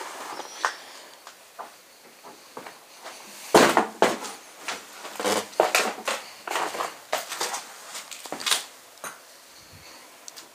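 A run of irregular knocks, clatters and scrapes of objects being moved and stepped on in a cluttered room, loudest about three and a half seconds in.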